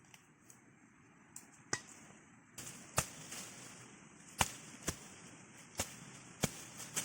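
A hand digging tool striking the ground in sharp, separate blows, about six of them roughly a second apart, with a few fainter ticks in the first second or so.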